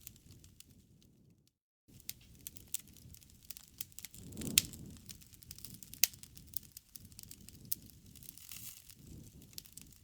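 Campfire burning: wood crackling and popping in irregular snaps over a low rumble, with one louder pop midway. The sound drops out completely for a moment just under two seconds in.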